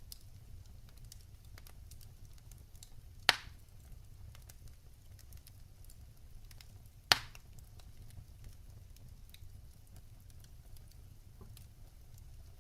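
Wood fire crackling in a fireplace: scattered small crackles and two loud sharp pops about four seconds apart, over a steady low rumble.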